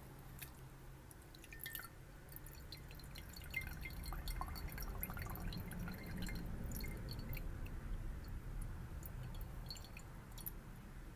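Water dripping and splashing in a glass: a scatter of small pitched plinks and light clicks, busiest in the middle, over a low swishing underneath.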